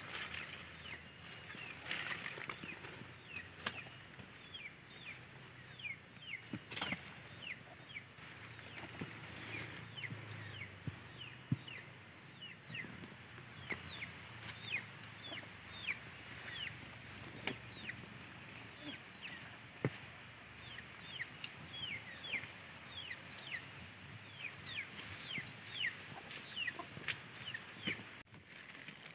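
Birds chirping over and over, each chirp short, high and falling in pitch, with occasional sharp clicks scattered among them.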